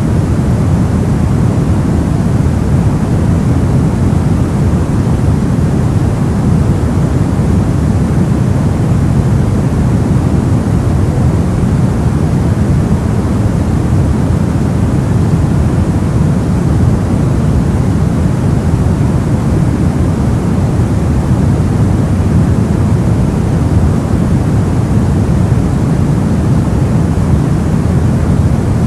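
Soft white noise: a steady, even rushing with most of its weight in the low tones, deeper than plain white noise.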